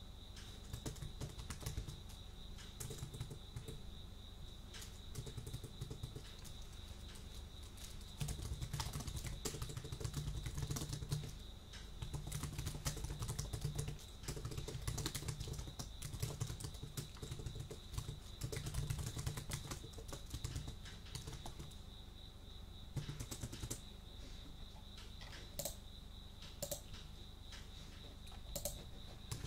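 Typing on a computer keyboard: irregular runs of keystroke clicks, sparser at first and quickest in the middle, with a steady high tone behind them.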